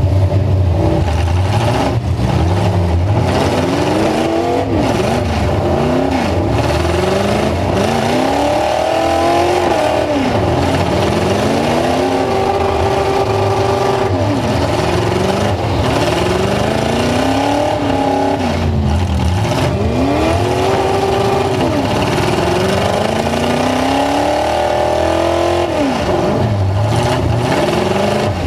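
Full-size pickup truck engine revving up and down over and over, the pitch climbing and dropping about every two to three seconds under heavy throttle.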